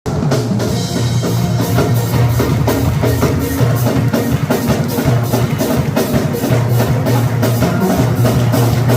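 A band playing music with a steady drum-kit beat and a strong bass line.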